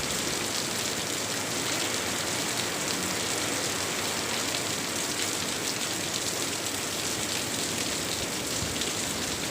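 Heavy rain pouring steadily, a dense even hiss of falling drops.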